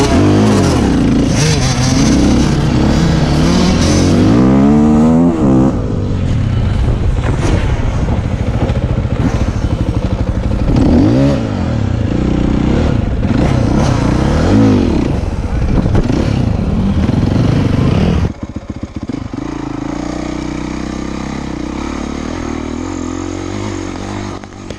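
Dirt bike engine revving up and down over and over, its pitch rising and falling every second or so. About eighteen seconds in it drops suddenly to a quieter, steadier engine note.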